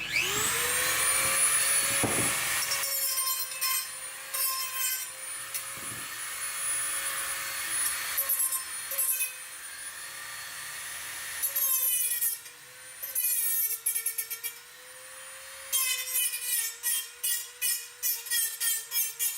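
Angle grinder spinning up, then grinding the steel of the bench frame in repeated passes, its motor pitch sagging and recovering as it is pressed into the metal. Rapid rasping strokes fill the second half.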